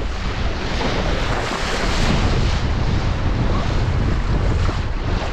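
Strong wind buffeting the microphone over water rushing and splashing along the hull of a Laser sailing dinghy running fast in high wind, a steady, unbroken noise.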